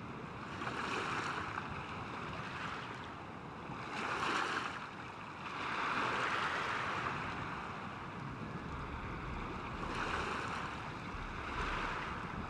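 Waves washing in, a rushing noise that swells and falls back several times, a few seconds apart.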